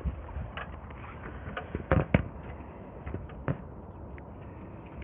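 Scattered sharp clicks and knocks of inspection-camera push rods being handled and joined, with the loudest pair of knocks about two seconds in.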